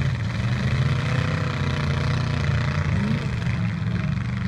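Demolition-derby truck engines running together in a steady low rumble, with one engine revving up about three seconds in.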